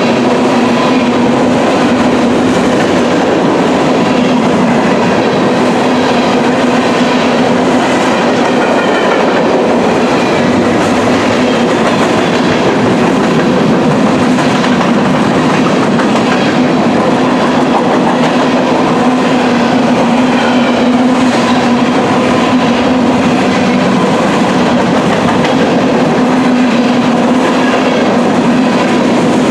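Freight train of covered grain hopper cars rolling steadily past: continuous wheel-on-rail rumble with a steady hum and repeated clicking of wheels over rail joints.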